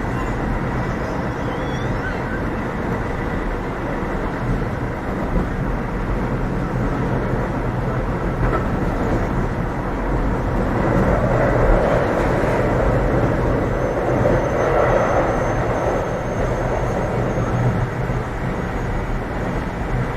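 Running noise inside a Keio 7000 series commuter train at speed: steady rumble of wheels on rail and motors, swelling louder for a few seconds past the middle.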